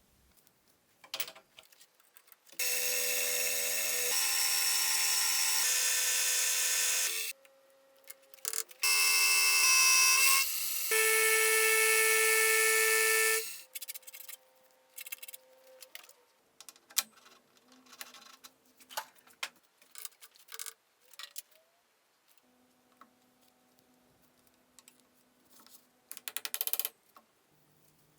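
A power tool's motor running with a pitched whine in two spells of about five seconds each, followed by scattered clicks and light knocks.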